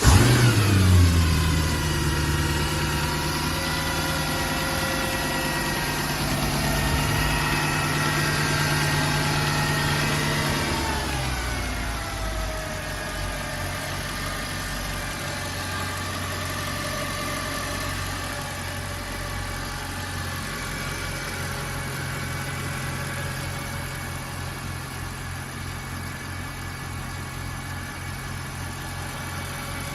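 2007 Mercedes-Benz E63 AMG wagon's 6.2-litre V8 on a cold start: it catches with a loud flare, holds a raised fast idle, then about eleven seconds in the revs drop and it settles into a lower steady idle.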